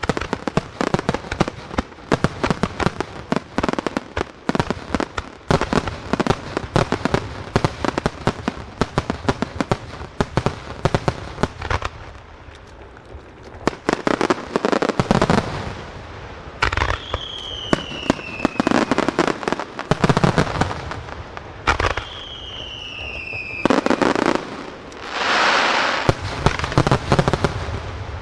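Starmine fireworks barrage: a dense, rapid string of shell bursts and crackles for about twelve seconds, then slower separate bangs with two falling whistles, and a long rushing hiss near the end.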